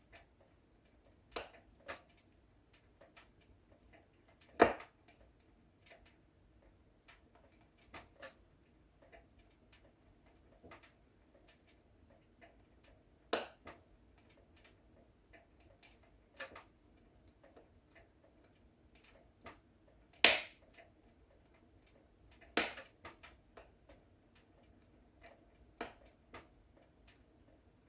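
Wood fire in a fireplace crackling: scattered, irregular snaps and pops over a faint steady hiss, with two sharp, louder pops, one about four and a half seconds in and one about twenty seconds in.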